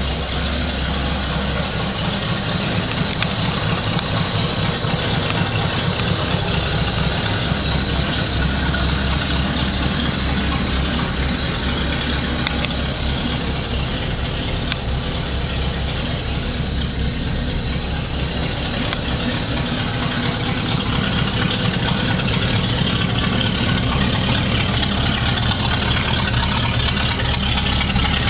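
1968 Ford Mustang's engine idling steadily with a low, even rumble.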